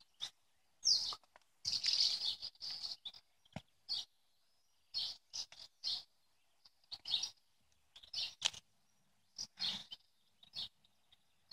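Small songbirds chirping in short, scattered calls, high-pitched and intermittent.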